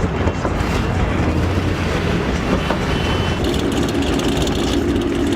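Car driving on the road: a steady low rumble of engine and road noise, with an engine drone that comes in about three and a half seconds in.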